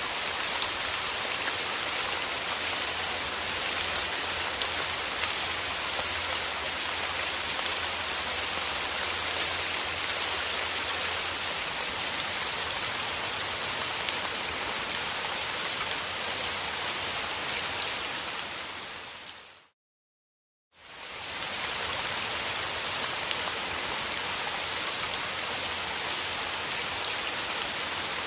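Steady rainfall hissing, with fine drops ticking on a surface. About two-thirds of the way through it fades out to a second of silence and fades back in.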